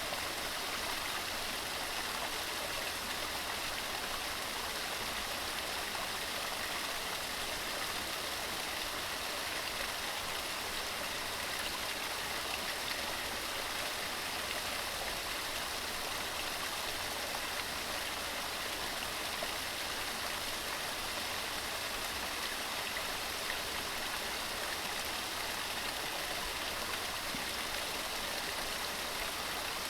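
Waterfall: a steady, unbroken rush of water tumbling over rocks.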